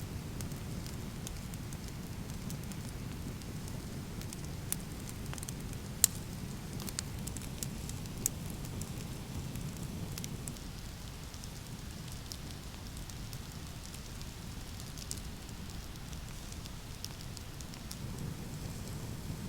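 Wood fire crackling, with scattered sharp pops (the loudest about six seconds in) over a steady low rushing noise.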